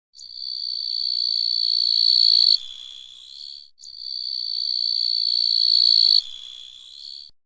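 Grasshopper stridulating in two identical phrases: each a steady high-pitched buzz that grows louder for about two and a half seconds, then drops abruptly to a quieter, slightly lower buzz for about a second before stopping.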